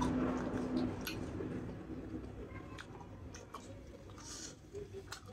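A person chewing a mouthful of rice and curry, with a few soft mouth clicks.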